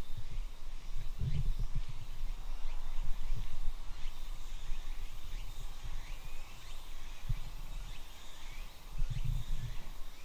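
Birds chirping in short, scattered calls over steady outdoor background noise, with low rumbling bursts about a second in and again about nine seconds in.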